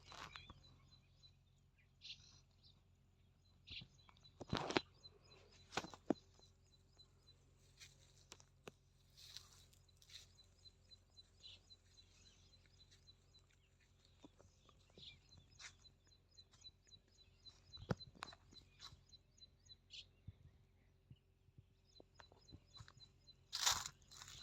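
Faint outdoor ambience: a fast, faint, steady high chirping of birds or insects, with scattered soft clicks and knocks, the loudest about four and a half, six and near the end, over a low steady hum.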